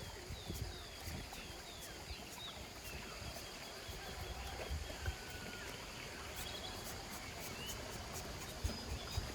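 Outdoor nature ambience: a bird repeats short falling chirps over a steady high-pitched hiss, with a few soft low thumps.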